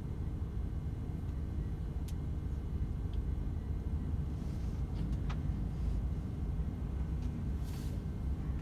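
DAF XF 510 lorry cruising on the motorway: a steady low rumble of engine and road noise, with a few faint clicks about two and five seconds in.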